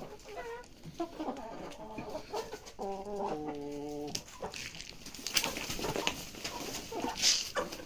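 Chickens clucking, with one longer drawn-out call about three seconds in that drops in pitch partway through.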